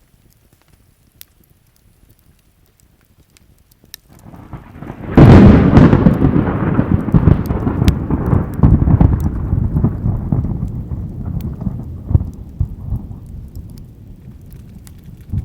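A thunderclap: faint scattered crackling of a campfire, then about four seconds in a low rumble builds and breaks into a loud crack, followed by thunder rolling and slowly dying away.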